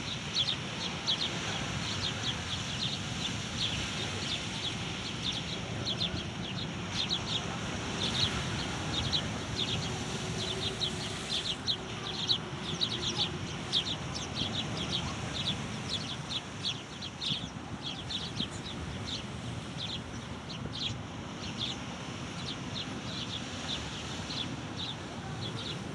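Many birds chirping at once: a dense, continuous stream of short high calls overlapping throughout, over a low background rumble.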